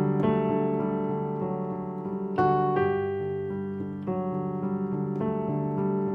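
Piano playing a flowing left-hand 1-5-8 broken-chord pattern with right-hand notes on top, an F-sharp (the major seventh) added as a small sixteenth-note decoration. The notes ring on under the next ones, with a stronger note about two and a half seconds in.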